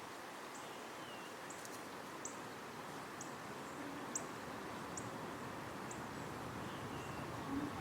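Backyard ambience with a steady faint hiss and a short, high chirp repeating about once a second. Two brief falling calls come in, about a second in and again near the end.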